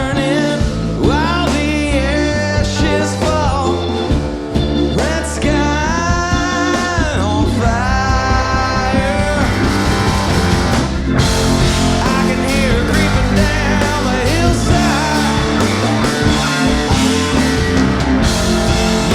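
Live rock band playing a song, full and steady, with a lead line that bends up and down in pitch through the first half.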